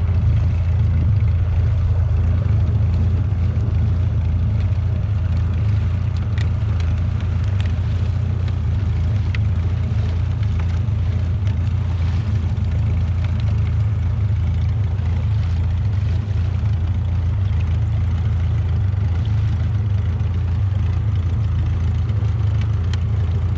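Small fishing boat's engine running steadily at low revs, a deep even hum, with a few faint clicks over it.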